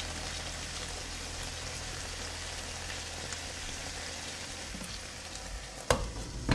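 Chicken breast and vegetables sizzling and crackling steadily in a frying pan. Near the end a glass pan lid is set down on the pan with a sharp clink, and a second clink follows as it settles.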